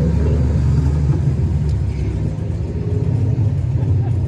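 Car engine idling with a steady, deep rumble, a sound that is likened to an old-school Chevy.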